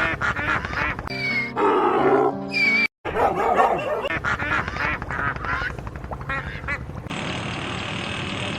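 Ducks quacking in quick repeated calls, broken about a second in by a short stretch of music with held notes, then quacking again; near the end the quacking gives way to a duller steady background.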